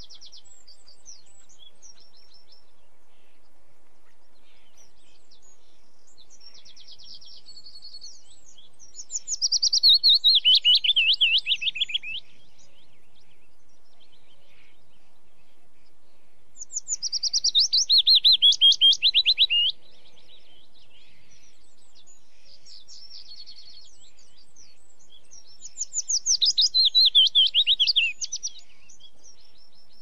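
Songbirds singing: three loud phrases of rapid trilled notes, each about three seconds long and falling in pitch, come roughly eight seconds apart, with fainter high chirps and trills in between.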